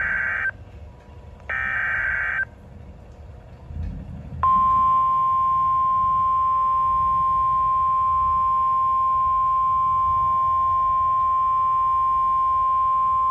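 NOAA Weather Radio alert: two one-second bursts of the digital SAME header data, then after a short gap the steady 1050 Hz warning alarm tone, held for about nine seconds and cut off suddenly. It signals the start of a severe thunderstorm warning broadcast.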